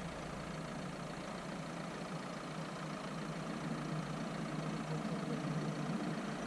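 Dacia Duster's engine idling steadily.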